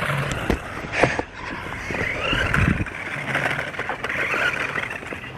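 Electric motor of a radio-controlled truck whining, its pitch rising and falling as it speeds up and slows, with a few sharp knocks.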